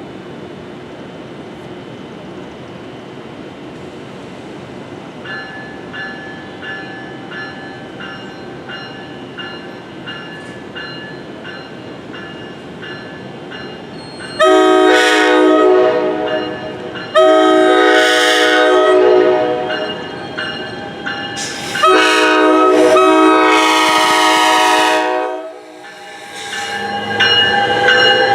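Grade-crossing bells ringing in a steady repeating clang starting about five seconds in, then an NJ Transit train's air horn sounding three long blasts for the crossing as the train approaches, its rumble rising near the end.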